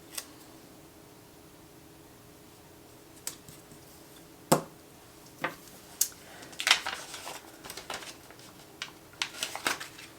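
Stickers and paper being handled on a planner page: scattered sharp clicks and taps with a little rustling, coming in small clusters in the second half.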